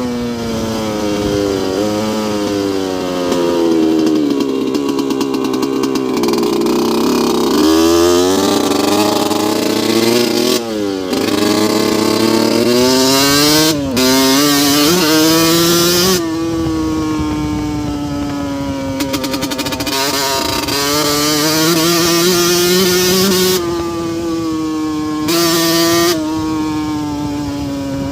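2002 Yamaha YZ125 125cc two-stroke single-cylinder engine running hard, its pitch climbing and falling again and again as the throttle is opened and closed, with several sudden jumps in pitch and level along the way.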